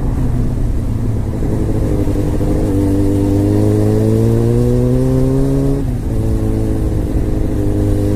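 Small motorcycle engine running under way, its pitch slowly climbing with speed, then dropping sharply about six seconds in as it shifts up a gear and climbing again. Wind noise runs beneath it.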